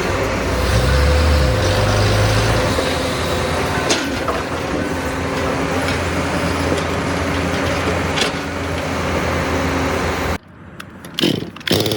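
Heavy vehicle engine running steadily, with two brief sharp clicks about four and eight seconds in. It cuts off abruptly near the end, leaving a few quieter scattered noises.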